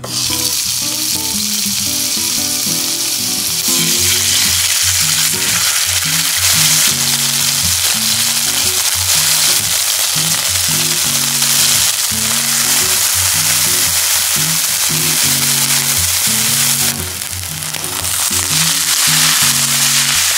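Minced chicken sizzling in hot cooking oil in a nonstick frying pan, the hiss starting abruptly as the meat drops in and growing louder about four seconds in; it eases briefly near the end and then picks up again. Guitar music plays underneath.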